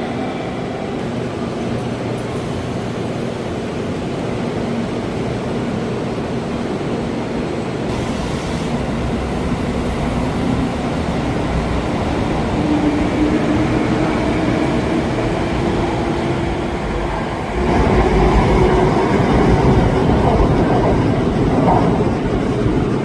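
Kamome Shinkansen train running, a steady rumble with a faint motor whine that rises in pitch as it picks up speed. It grows louder about three-quarters of the way through.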